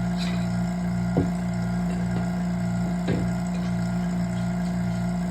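Vacuum pump running steadily: a constant hum with a regular pulse about two to three times a second. Two short knocks, about a second in and about three seconds in.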